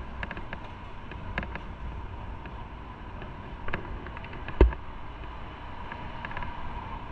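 Motorcycle riding on the road: a steady low rumble with wind noise and scattered light ticks, and one sharp thump a little past halfway.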